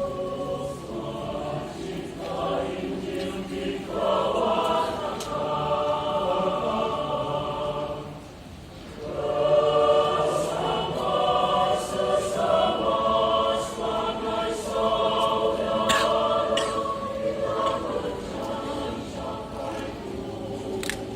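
A choir singing a hymn, with a brief pause between phrases about eight seconds in.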